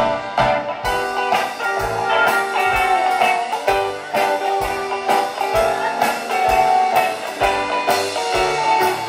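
Band playing an instrumental passage: guitar and bass lines over a steady drum-kit beat.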